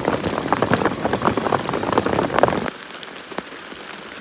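Rain, with many close drops striking a surface, which drops abruptly about two and a half seconds in to a fainter, steady rain with only scattered drops.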